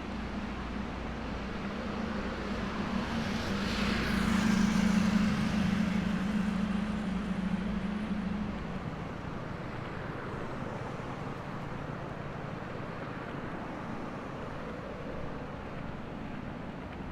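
City street traffic, with a motor vehicle passing close: it grows louder to a peak about five seconds in and fades by about nine seconds. A steady low hum runs under it until then.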